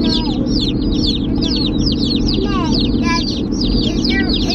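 A crowd of day-old Rainbow Ranger meat chicks cheeping, many rapid high peeps overlapping in a continuous chorus, over a steady low rumble.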